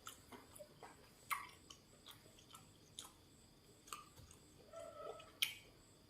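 A person chewing food close to the microphone: soft mouth sounds with a string of short, sharp crunchy clicks, the loudest about a second in and near the end.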